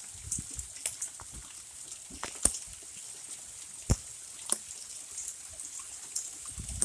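Hailstones falling and striking hard surfaces: scattered sharp clicks and knocks at irregular intervals, a few much louder than the rest, over a steady hiss of falling hail and rain.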